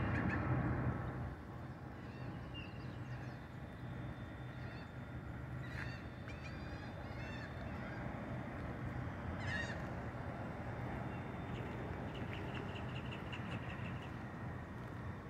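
Outdoor ambience: a steady low hum and background noise, louder in the first second, with short bird calls a few times and a quick run of repeated chirps near the end.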